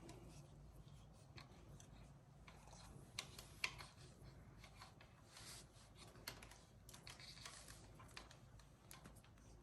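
Near silence with faint, scattered small clicks and taps of hands handling parts, a few slightly louder ones about three and a half seconds in.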